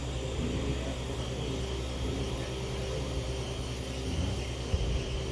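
Small-scale electric RC pulling trucks running under load, a steady whir over a constant low hum.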